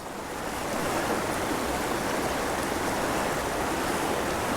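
Creek water rushing steadily, an even hiss that rises a little over the first second and then holds level.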